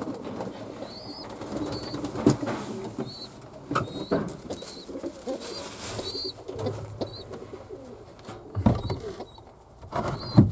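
Fantail doves cooing, with repeated short high chirps and several sharp knocks, the loudest near the end.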